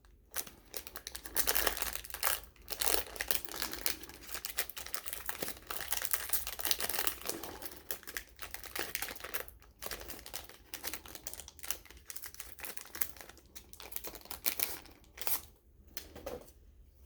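Foil wax-pack wrapper of a 1992 Leaf Studio baseball card pack being torn open and crinkled by hand, in a long run of irregular crackles that dies away about a second before the end.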